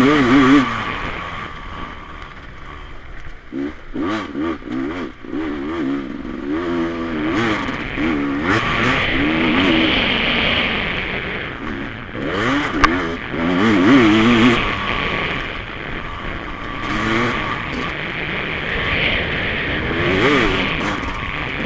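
Off-road racing motorcycles riding a motocross course, their engines revving up and down over and over as the bikes work through the track. The engine note comes and goes in several spells, loudest near the start and again about two thirds of the way in.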